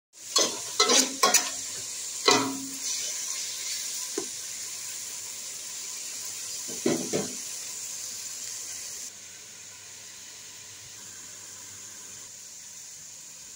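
Sliced onions, tomatoes and green peppers sizzling in oil in an aluminium pot while a spatula stirs them, scraping and knocking against the pot several times in the first couple of seconds and again about seven seconds in. The sizzle drops away suddenly about nine seconds in, leaving a fainter steady hiss.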